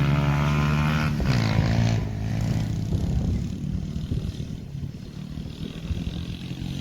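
Engine of a 50cc 10ten 50R dirt bike running. Its pitch drops about a second in, then the sound fades to a low rumble over the last few seconds.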